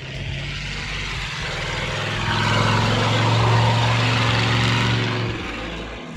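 A loud engine passing by: a steady low hum with a rushing noise that swells to a peak about three and a half seconds in, then fades away.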